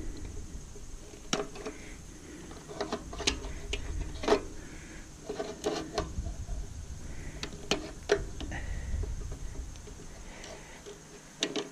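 Scattered light clicks and knocks of tools and small parts being handled while taking apart the wiring of a stainless steel steamer, over a faint low rumble.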